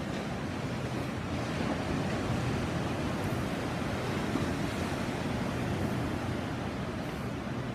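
Sea waves breaking and washing on the shore, a steady rush that swells gently partway through, with some wind noise on the microphone.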